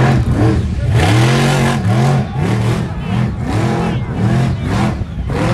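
Monster truck engine revving hard in repeated throttle blips, its pitch swooping up and down about twice a second.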